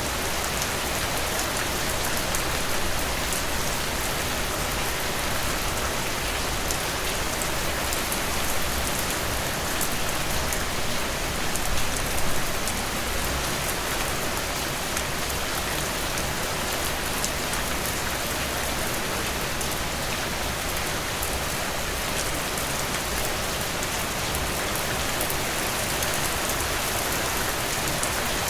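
Heavy rain falling in a steady, dense downpour, swelling briefly about twelve seconds in.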